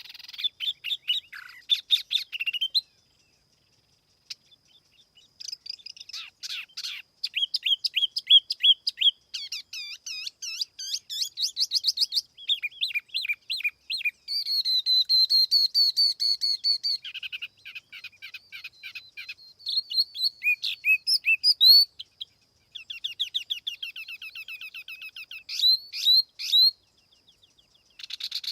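Tiểu mi songbird singing in a clean lure recording: fast trills and runs of quick repeated high whistled notes, in phrases separated by brief pauses.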